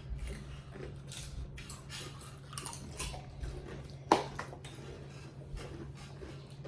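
People crunching and chewing Doritos tortilla chips: a string of irregular crisp crunches, with one louder snap about four seconds in.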